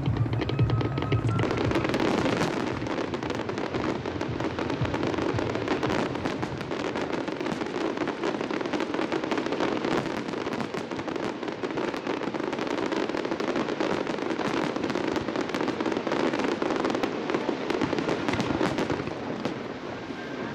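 Fireworks display going off continuously: a dense barrage of many bursts and crackles a second, with no let-up.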